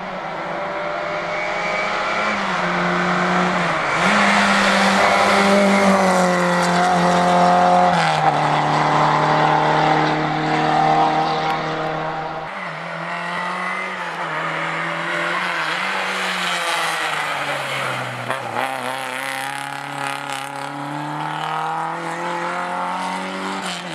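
Lada 2107 rally car's inline-four engine driven hard, its revs climbing and falling with gear changes and throttle lifts. The sound changes abruptly about halfway through.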